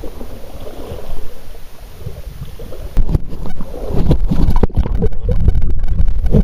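Creek water sloshing and splashing right at the microphone, with heavy low rumble and knocks of handling noise. It grows louder and busier about three seconds in.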